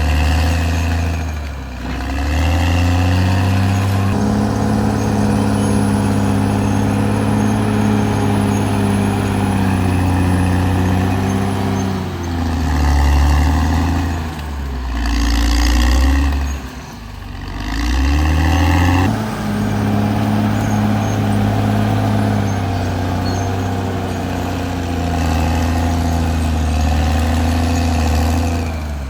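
Caterpillar D6R XL bulldozer's diesel engine running under working load. Its pitch drops and picks up again several times: briefly about two seconds in, and more deeply twice in the middle.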